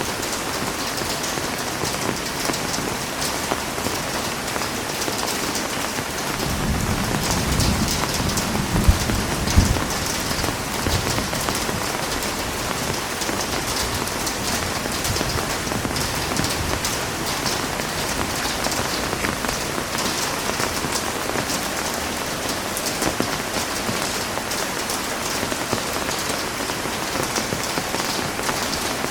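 Heavy rain falling steadily. About a third of the way in, a low rumble swells for a few seconds with two louder peaks, then fades back into the rain.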